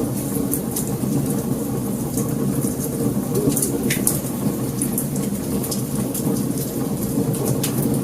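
Wood fire burning: a steady low rumble with frequent sharp crackles and pops scattered throughout.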